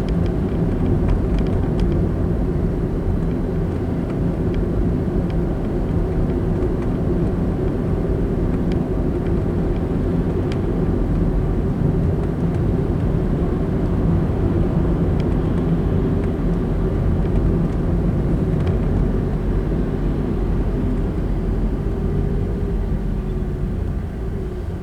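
Car driving along a road: a steady rumble of engine and tyre noise that eases off near the end.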